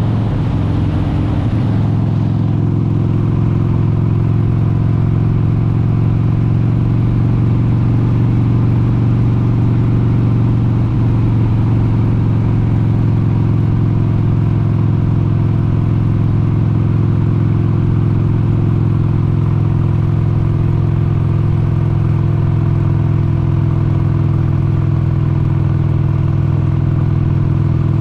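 1996 Harley-Davidson XLH883 Sportster's air-cooled 883 cc V-twin running under way at cruising speed. Its pitch wavers briefly at the start, then holds steady with a deep, even exhaust note.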